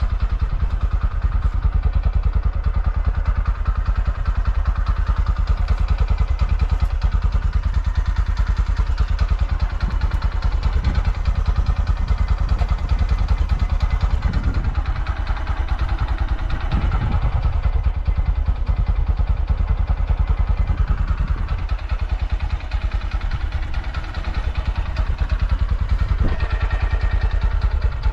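Honda Grom JC61's 125 cc air-cooled single-cylinder four-stroke engine, fully stock, idling with a steady, even beat through its standard exhaust. It runs cleanly, with no abnormal noises as the seller describes it.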